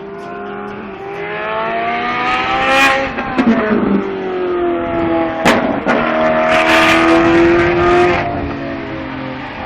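Ferrari 458's V8 engine revving hard, its pitch climbing and then dropping sharply about three seconds in, as at a gear change. A sharp crack comes about halfway through, then the pitch climbs again and falls away near the end.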